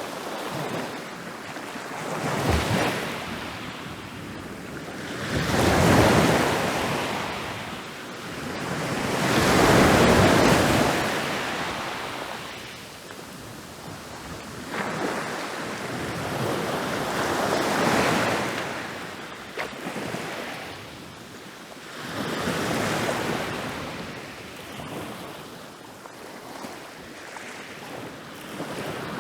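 Ocean waves breaking and rolling up a beach: surf swells up and dies away in turn every few seconds, the biggest breakers about six and ten seconds in.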